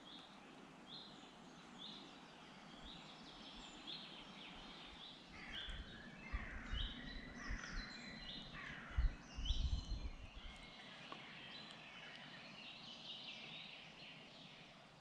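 Woodland birdsong: a bird repeats a short high chirp about once a second, then several birds sing together. Bursts of low rumble around the middle are the loudest part.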